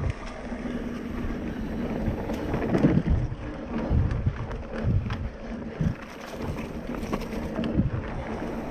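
A mountain bike rolling fast over a dirt trail, with wind buffeting the microphone, the bike rattling, and irregular thumps as it hits bumps.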